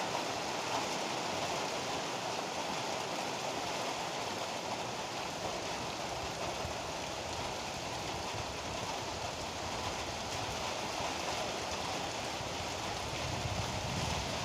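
Heavy rain pouring steadily, a dense even hiss. A low rumble starts to build near the end.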